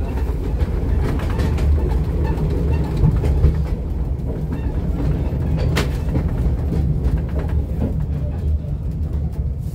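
Narrow-gauge railway carriage running along the track, heard from inside the carriage: a steady low rumble of wheels on rail, with a single sharp clank about six seconds in.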